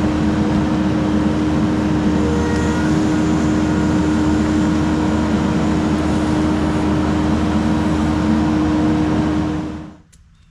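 Heavy equipment engine running steadily under load, with a strong steady hum, fading out quickly near the end.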